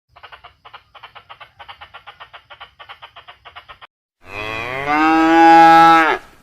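A cow mooing once, a loud drawn-out call of about two seconds that drops in pitch as it ends. Before it, a quick run of short clacks, about seven a second, for nearly four seconds.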